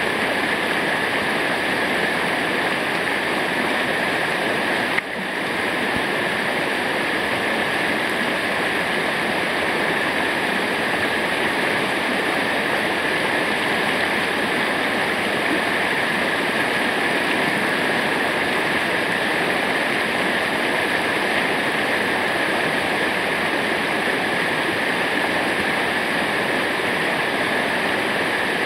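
Waterfall: a steady rush of falling water, even and unbroken, with one brief click about five seconds in.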